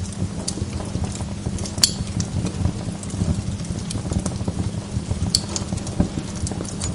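Wood log fire crackling in a fireplace: a steady low rumble of flame under many small ticks, with two sharp pops, one about two seconds in and another a little past five seconds.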